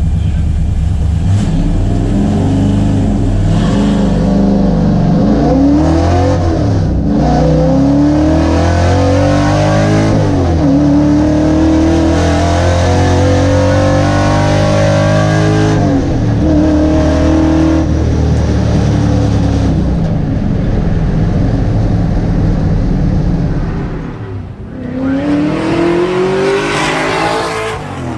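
A Ford XF Falcon race car's 302 Windsor V8 accelerating hard through the gears. The revs climb and fall back at each of three upshifts, then hold fairly steady. The engine dips briefly and revs up sharply again near the end.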